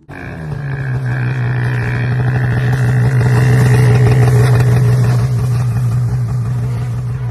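Snowmobile engine running loud and steady at a constant high pitch, starting abruptly.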